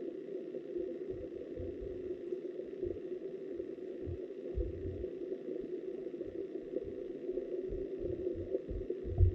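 River water flowing past an underwater camera, heard through the camera housing as a steady muffled hum, with irregular low thuds and the strongest thud near the end.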